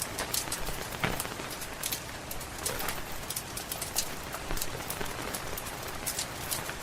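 Steady rain patter mixed with the frequent sharp pops and crackles of a wood fire burning in a fireplace.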